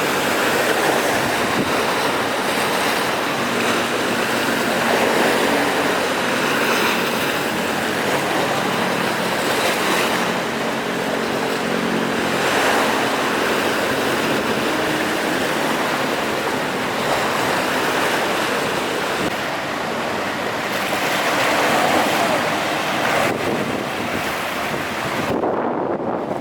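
Rough sea in strong wind: waves crashing and washing, swelling and easing every few seconds, with gusts blowing across the microphone.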